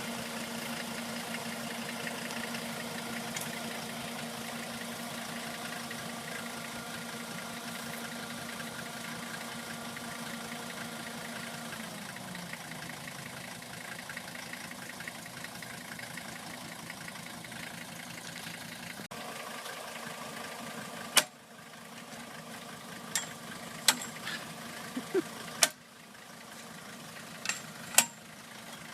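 A motor runs with a steady hum, then its pitch sinks and it dies away about twelve seconds in. Later there is a series of sharp clicks and knocks, about eight of them, spaced irregularly.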